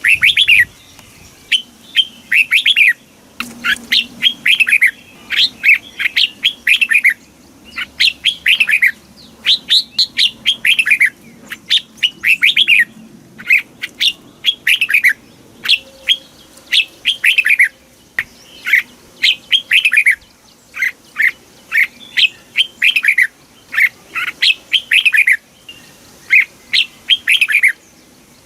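Red-whiskered bulbul singing: short, clear phrases of quick downward-sliding whistled notes, repeated a phrase every second or two with brief pauses between.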